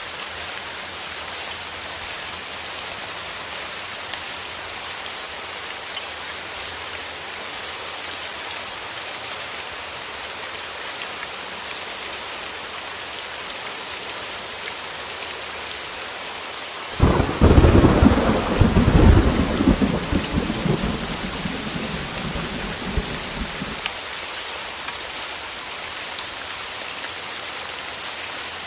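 Heavy rain falling steadily, with a sudden crack of thunder about two-thirds of the way through that rumbles on and dies away over roughly six seconds.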